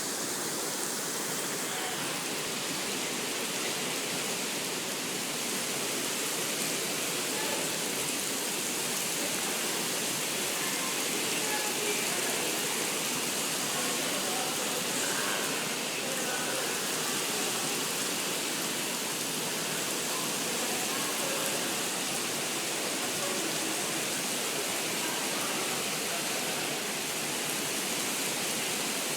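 Man-made rain falling steadily from the Rain Room installation's ceiling, a dense even hiss of water pouring down.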